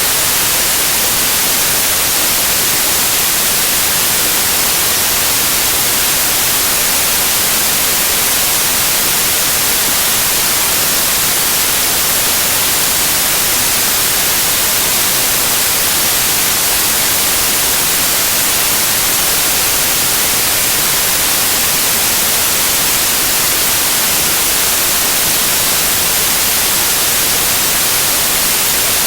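Loud, steady white noise: an even, unchanging hiss, strongest in the high end.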